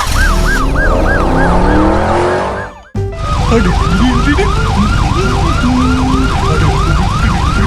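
Police car siren sound effect wailing in quick rising-and-falling cycles, about three a second. It cuts out briefly about three seconds in, then carries on.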